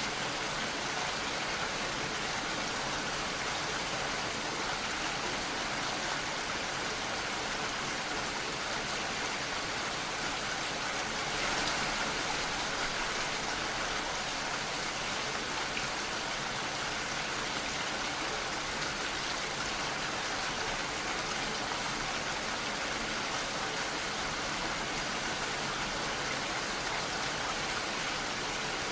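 Steady rain falling, an even hiss of many drops, briefly a little heavier about a third of the way in.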